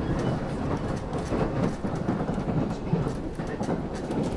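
Running noise inside a passenger car of the Limited Express Yakumo at speed: a steady rumble of wheels on rail, with irregular clicks and clacks from the rail joints and track.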